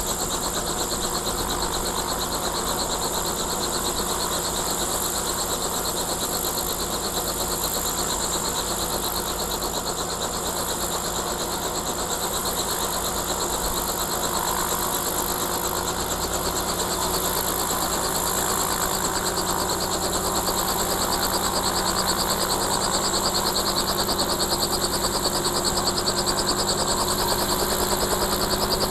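Helicopter turbine engine and rotor running on the ground with a steady whine, slowly getting louder in the last third as it spools up.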